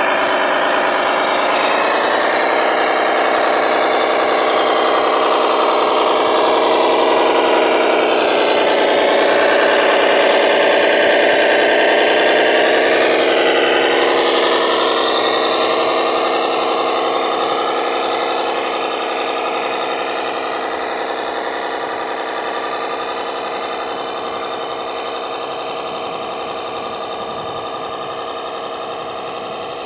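Engine running steadily, its pitch shifting slowly up and down, fading out gradually over the second half.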